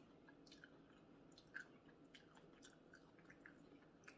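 Faint close-up chewing with the mouth full: scattered soft mouth clicks and wet smacks, the loudest about a second and a half in, over low room hum.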